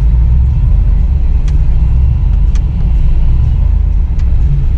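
Low, steady rumble of off-road truck engines running in deep snow, with a few faint sharp clicks.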